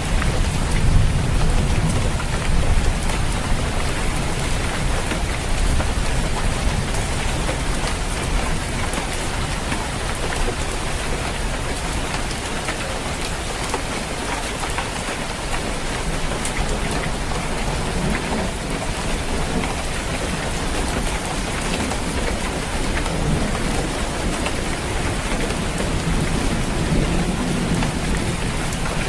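Steady heavy rain falling on a roof, an even dense patter, with low rumbles swelling underneath now and then, near the start and again toward the end.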